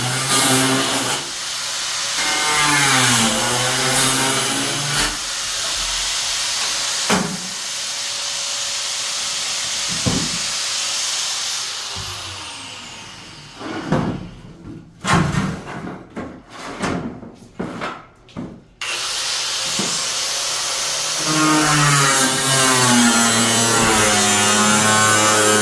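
Electric power tool motor running, its pitch dropping and rising as it is loaded and eased off. In the middle it runs in a series of short starts and stops, and near the end it runs steadily.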